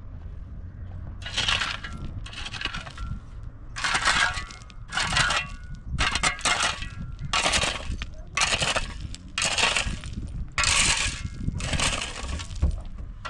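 Rhythmic gritty scraping strokes, about one a second, starting about a second in: a hand tool or shovel working against rough, gritty material.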